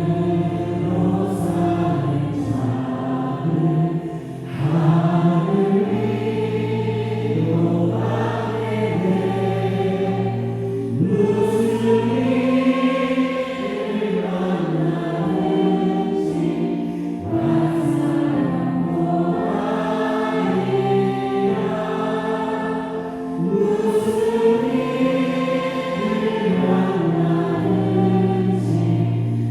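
Church worship team singing a praise song together as a group, backed by a live band of drums, bass guitar and keyboard.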